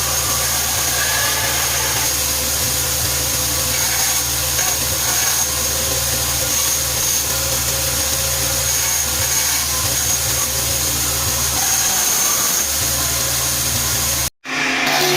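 A machine's motor running steadily with a constant hum and a faint high whine, cut off abruptly by an edit near the end.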